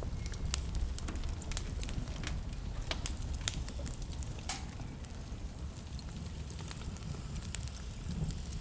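Wood fire in a fireplace crackling: irregular sharp pops and snaps, a few louder ones in the first half, over a steady low rumble of the burning.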